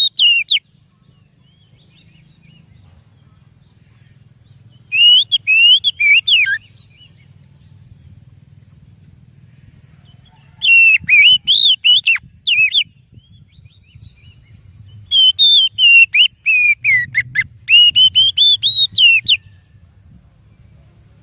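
Oriental magpie-robin singing: loud, clear whistled and warbling phrases in four bursts separated by pauses of a few seconds, the last burst the longest. A faint low hum lies underneath between the phrases.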